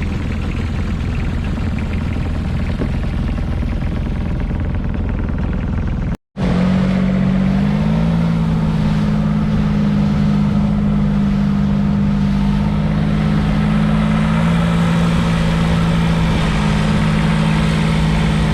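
Small fishing boat's engine running steadily under wind and water noise. After a brief cut about six seconds in, the engine drone is louder and steadier, stepping up slightly in pitch soon after and then holding.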